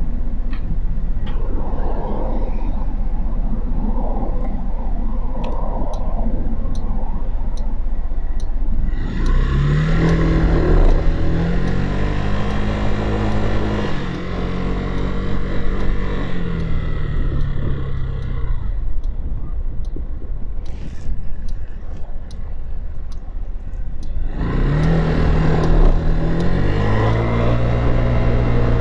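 Motorcycle engine running low for the first several seconds, then pulling away with the engine note rising and dropping back at each upshift, easing off and quietening, then accelerating through the gears again near the end.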